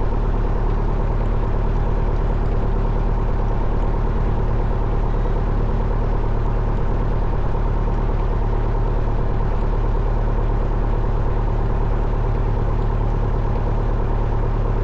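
A 1972 Cessna 172 Skyhawk's four-cylinder Lycoming O-320 engine idling steadily on the ground, with no change in speed.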